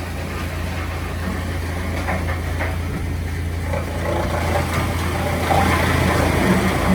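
An engine running steadily at idle, a low even hum with a few faint knocks over it.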